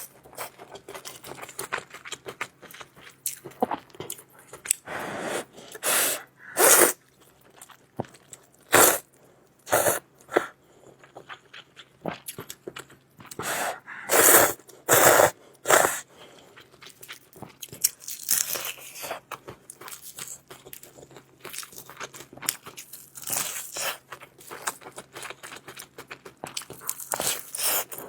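Close-miked eating: irregular chewing and crunching, with a few louder, longer bursts scattered through.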